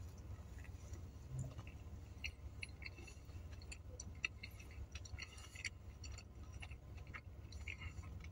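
Faint chewing of a chicken cheeseburger, with small scattered mouth clicks over a steady low hum.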